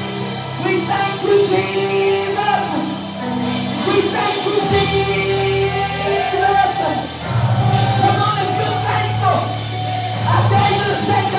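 Live gospel worship band playing, with held keyboard and bass chords and a wavering singing voice over them. Cymbal crashes come three times.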